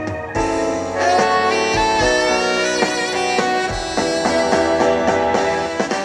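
Instrumental break of a Korean trot song played through a stage PA: a saxophone carries the melody over bass and drums.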